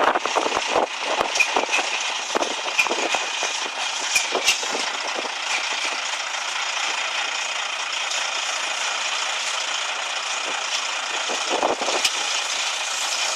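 Heritage railway train, with a steady hiss and rattle and scattered clicks, and a few faint short squeals in the first half.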